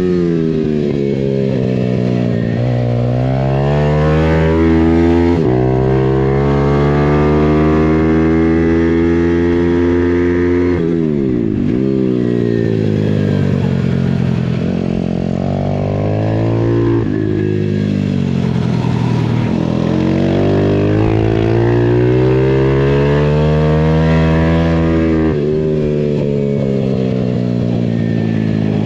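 Pitbike's single-cylinder engine pulling up in pitch for a few seconds at a time, then dropping off sharply and climbing again, over and over, as it is ridden hard around a track.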